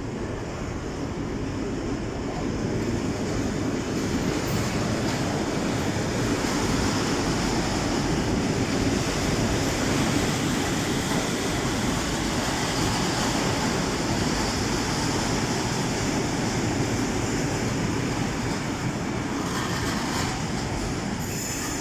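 A train running through the station with a steady rumble that builds over the first few seconds, then holds.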